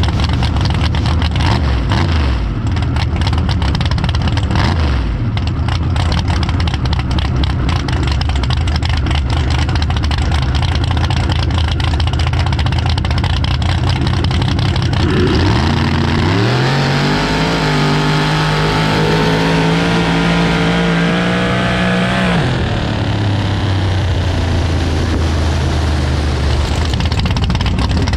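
Drag car engine idling with a rough, uneven beat, then revved up about 15 seconds in and held at a steady high speed for about five seconds before dropping back to idle.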